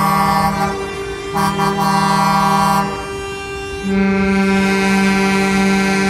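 Truck air horns blowing long blasts. One blast stops a little under a second in, a second one sounds from about one and a half to three seconds, and a horn of a different pitch starts at about four seconds and holds.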